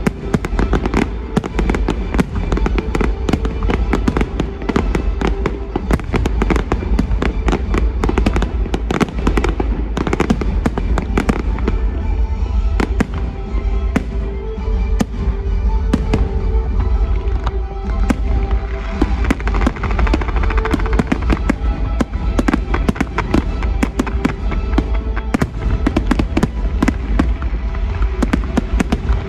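Aerial fireworks display going off in a dense, continuous barrage of sharp bangs and crackles, with music playing underneath.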